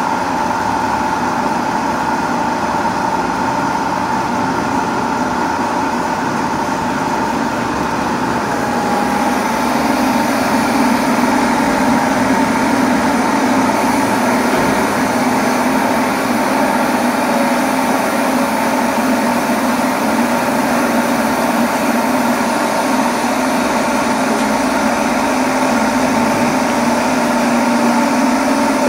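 A motor running steadily, a continuous drone with a steady hum that grows a little stronger about nine seconds in.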